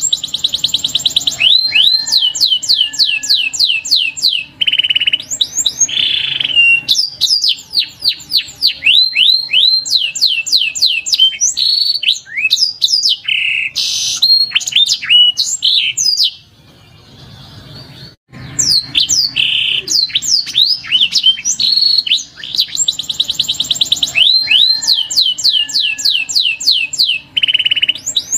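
Canary song: fast trills of rapidly repeated sweeping notes and rolling runs. The song breaks off briefly about two-thirds of the way through, then starts again.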